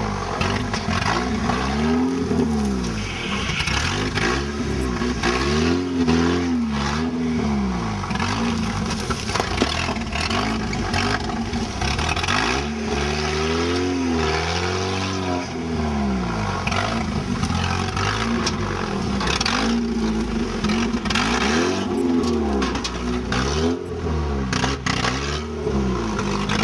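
An off-road trial 4x4's engine revving up and down again and again as it crawls through mud and over rocks, with scattered knocks through the run.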